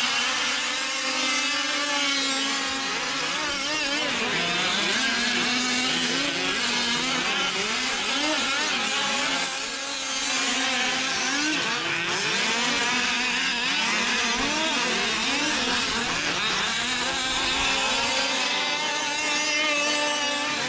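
Several 1/5-scale gas-powered RC trucks racing, their small two-stroke engines buzzing and revving up and down over one another.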